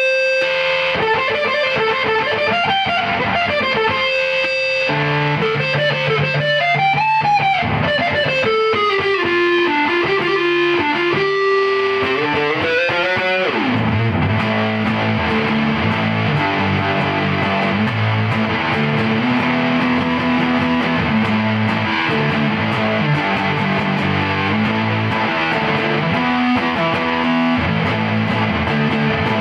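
Electric guitar, a Squier Jazzmaster, played through a triple fuzz pedal: a fuzzy lead line whose notes slide up and down in pitch, then, about halfway, thick sustained distorted chords.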